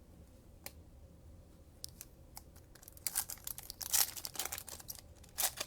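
Trading card packs and cards being handled: a few light clicks, then about three seconds in a dense burst of crinkling and tearing of a plastic pack wrapper, with another short crinkle near the end.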